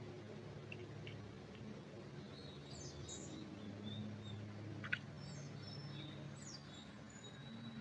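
Small birds chirping with short high calls, more of them from about two and a half seconds in and one sharp note about five seconds in, over a steady low background hum.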